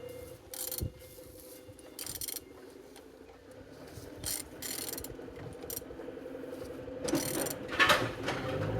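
Opel Z12XEP four-cylinder petrol engine being turned over by hand with a wrench, giving irregular ratchet-like clicks and mechanical scraping, loudest near the end. The engine turns freely, a sign it is not seized.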